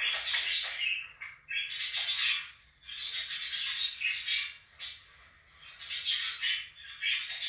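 Monk parakeets (Quaker parrots) squawking loudly in repeated harsh bouts of about a second each, over the chirping of a budgerigar flock.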